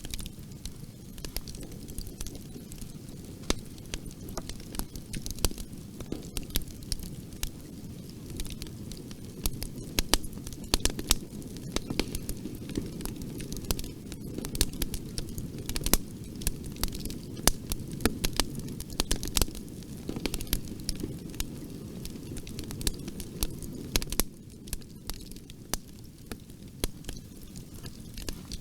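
Bonfire burning: a steady low rumble of flames with frequent irregular crackles and pops of burning wood.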